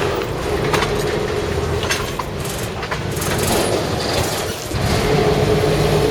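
A boat's engine running steadily with a droning hum and a low rumble, a few clicks and knocks over it, getting louder near the end.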